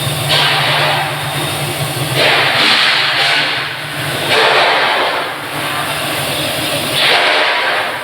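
Machinery running in a steel pipe mill: a steady low hum, with a loud hissing noise that surges and fades four times, roughly every two seconds.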